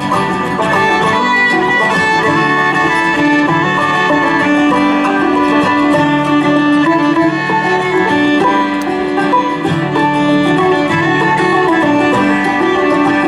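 Bluegrass string band playing an instrumental break between sung verses: acoustic strings with long held notes over the band's steady accompaniment, no singing.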